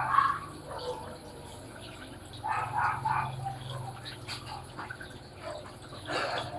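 Water running into a Panasonic washing machine's tub over a steady low hum, with short pitched sounds about two and a half seconds in and again near the end.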